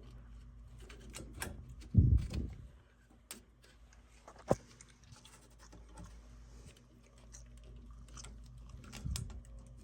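Light clicking and tapping of small parts and hand tools being handled on a furnace gas valve, over a steady low hum. A dull thump comes about two seconds in, a sharp click near the middle, and a softer thump near the end.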